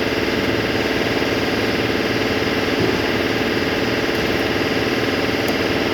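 A motor running steadily with a dense, even mechanical drone.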